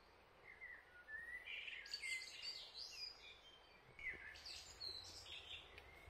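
A songbird singing two quick, varied phrases, the first starting about a second in and the second about four seconds in.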